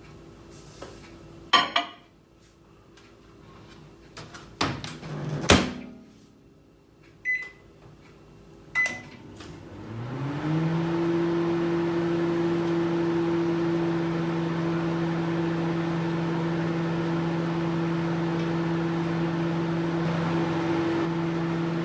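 Microwave oven being operated: a few clicks and knocks from its door, then two short keypad beeps. About ten seconds in the oven starts, its hum rising briefly in pitch and then running steady.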